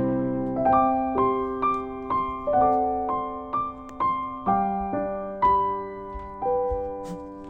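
Background music: a soft piano melody of single notes, about two a second, over a held bass note.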